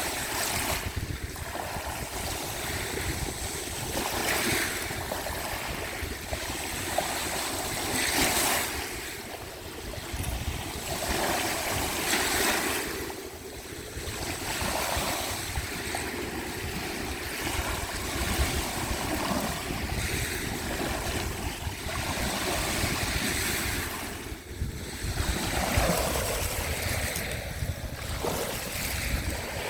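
Sea waves washing onto the shore, each wash swelling and fading every four seconds or so, with wind rumbling on the microphone.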